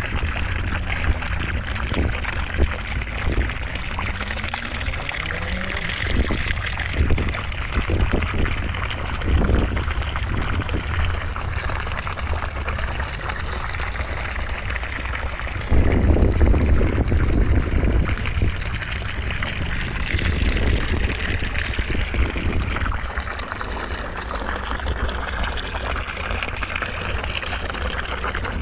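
Steady rushing white noise with a deep rumble underneath; the hiss wavers slowly, and the sound gets a little fuller and louder about halfway through.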